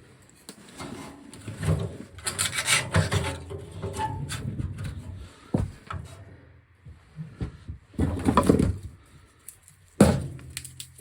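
Birch kindling being handled and laid into a small wood stove: wood rubbing and scraping in irregular bursts, with a few sharp knocks.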